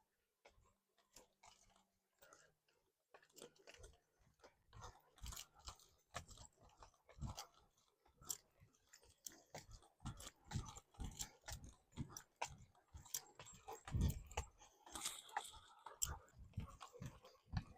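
A dog chewing, a run of irregular soft crunches that grows busier after the first few seconds.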